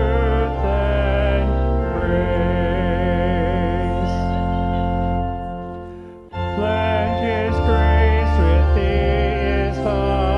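Hymn singing with organ accompaniment: voices and held organ chords. The music dies away about six seconds in, then starts again abruptly.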